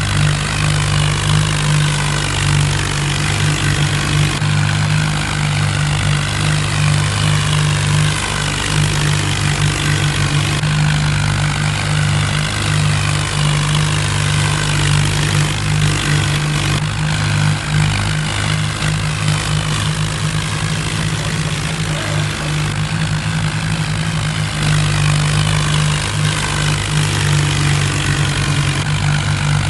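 Diesel tractor engine running steadily at a constant pitch with a deep, even hum.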